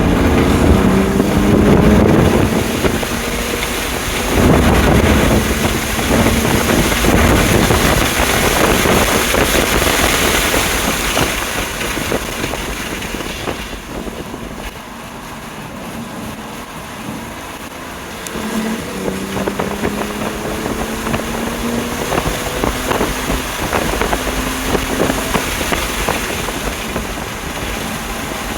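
Stock BMW M2 Competition's twin-turbo straight-six under hard acceleration at track speed, its note climbing in pitch, with heavy wind and tyre noise. About halfway through the engine eases off and the sound drops, then it pulls and rises in pitch again.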